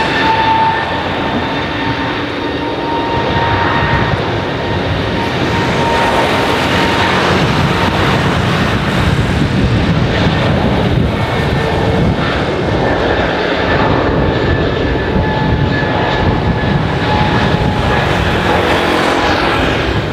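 Airbus A320neo (A320-251N) jet engines running at high power on departure: a loud, steady rush of engine noise with faint whining tones that slowly shift in pitch.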